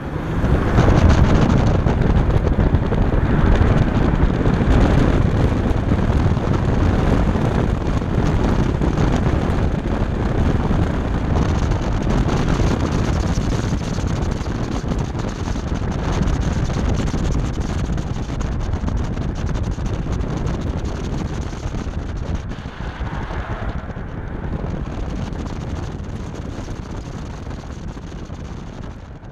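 BMW F10 535i's turbocharged inline-six accelerating hard from a standing start and driven flat out through an autocross course, with heavy wind noise on the microphone. The sound jumps up sharply at the launch and eases gradually over the last few seconds.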